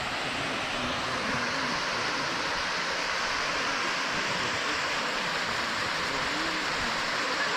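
Steady rush of water from a mountain waterfall, an even hiss with no change in level.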